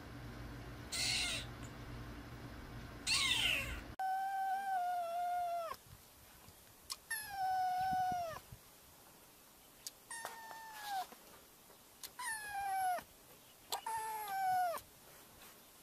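Kittens meowing over and over, about seven high-pitched calls. Two short ones come first, then five longer drawn-out meows, each dropping in pitch as it ends.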